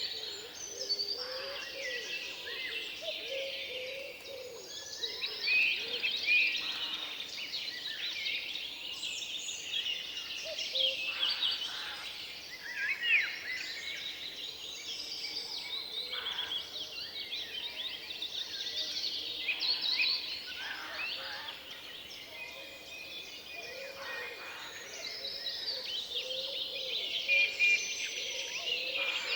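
Forest ambience full of songbirds chirping and singing over one another, with many overlapping short calls and trills throughout.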